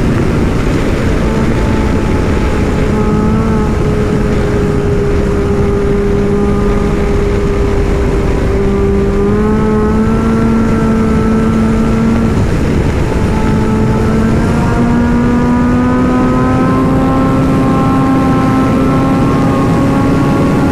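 Kawasaki Z900's inline-four engine running under way at steady throttle, its note dipping slightly and climbing back a few times, over heavy wind noise on the microphone.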